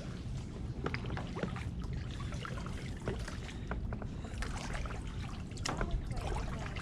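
Kayak paddling: water splashing and dripping off the paddle blades, with scattered light knocks.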